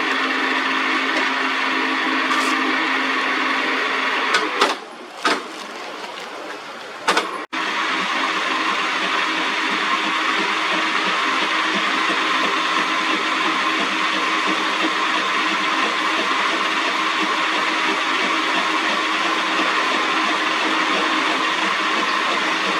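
Metal lathe running steadily, turning an iron part. About five seconds in it goes quieter for a few seconds, then comes back abruptly.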